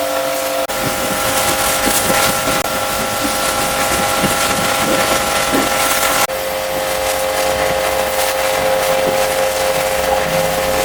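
A motor-driven cleaning machine running with a steady whine over a loud hiss. The sound breaks off and jumps abruptly twice, about a second in and about six seconds in.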